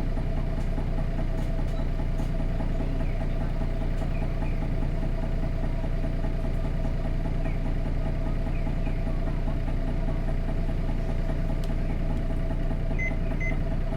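Nissan Diesel KC-RM211GSN bus's FE6 diesel engine idling steadily at a stop before moving off. Two short, faint beeps come near the end.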